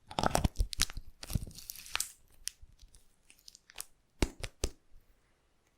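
Slime being squeezed and stretched close to the microphone: a quick run of sticky pops and crackles in the first two seconds, then a few scattered clicks.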